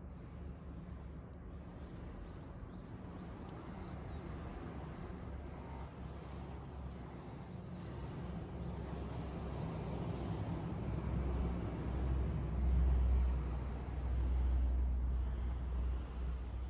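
Fire burning in a rusty can with a steady hiss, while a low rumble swells over the second half and becomes the loudest sound.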